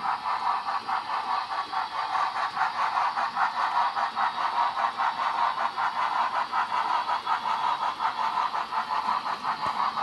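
Paragon 3 sound decoder of an HO-scale Broadway Limited Baldwin 2-8-0 Consolidation model steam locomotive playing an even, rhythmic steam exhaust chuff, about four beats a second, as the model runs.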